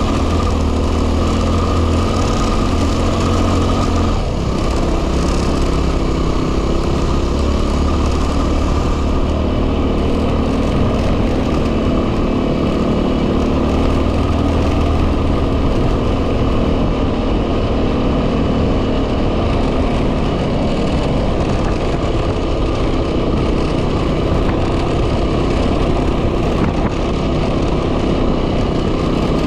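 2010 Yamaha WR250R's single-cylinder four-stroke engine running steadily while riding, mixed with heavy wind noise on the microphone. The low engine note shifts about four seconds in and again around the middle.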